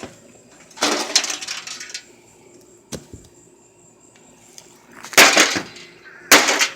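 Metal and glass parts of a microwave crashing and clattering as it is broken apart: a crash lasting about a second near the start, a sharp click midway, and two more short crashes near the end.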